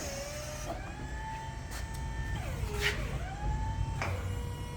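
Electric hydraulic pump motor on a Raymond reach truck whining as the sideshift is worked: the whine rises in pitch and holds twice, falling back between strokes and settling lower near the end, with a couple of faint clicks.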